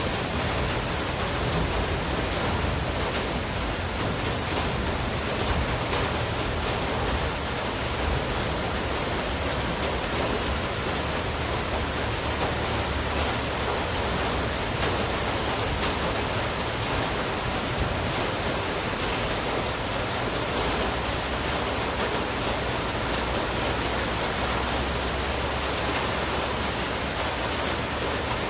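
Steady heavy monsoon rain falling, a dense even hiss with scattered faint drop ticks.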